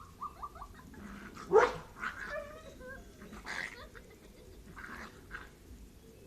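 A dog yelping and whining in a series of short cries, the loudest about a second and a half in.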